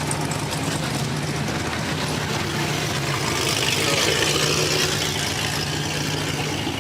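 Car engine idling with a steady low rumble. A hissing rush swells up about halfway through and eases off.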